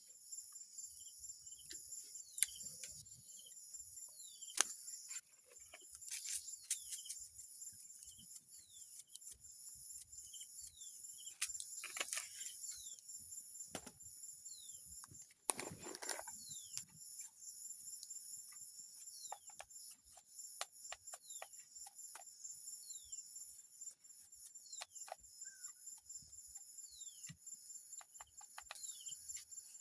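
Steady high chorus of crickets and other insects buzzing, with short falling chirps now and then and scattered clicks. There is a louder rustle about 16 seconds in.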